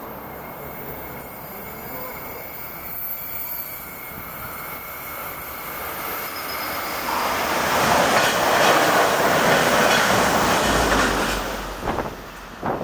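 NJ Transit locomotive-hauled train approaching at speed on the near track: the rush of wheels on rail builds steadily, is loudest in the second half, then gives way to a few sharp clacks as the locomotive reaches the platform, with a low rumble underneath.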